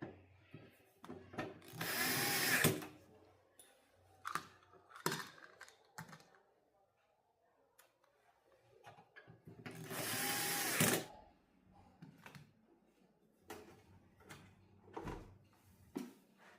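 A small electric screwdriver or drill running in two short bursts, about two seconds and ten seconds in, with clicks and knocks of parts being handled in between.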